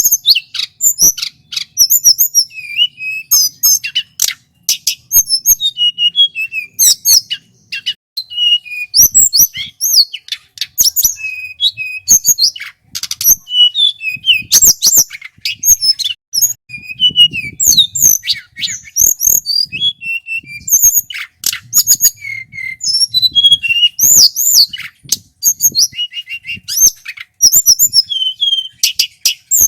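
Male hill blue flycatcher (tledekan gunung) singing a continuous, varied song: quick clear whistles, rolling trills and sharp high chirps, with only brief pauses between phrases.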